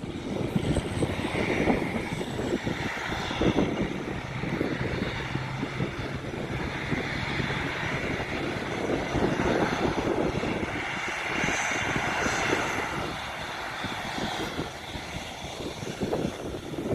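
Airplane engines running with a continuous drone, a hiss that swells and eases over several seconds, and a slight fade near the end.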